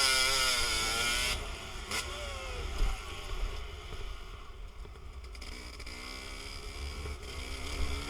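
Dirt bike engines running and revving, their pitch rising and falling, loudest in the first second or so, with wind buffeting the microphone as a steady low rumble.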